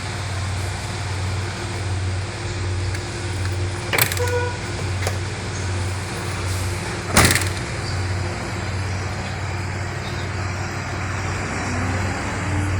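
Land Rover Discovery 3's 2.7-litre V6 turbo diesel idling with a steady low hum, with two sharp knocks about three seconds apart, the second louder.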